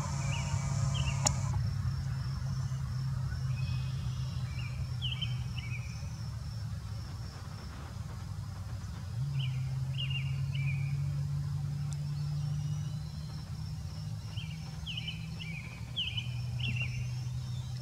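A bird calling in three runs of short, high, falling chirps a few seconds apart, over a steady low hum and a faint, even, high-pitched buzz.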